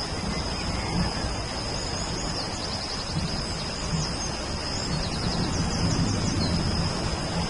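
Steady rain with a continuous high insect trill above it, and a bird's rapid chirping trill twice, about two and a half seconds in and again about five and a half seconds in.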